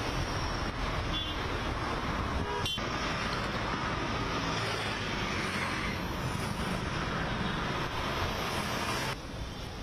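Road traffic: motor vehicles running, with a short horn toot.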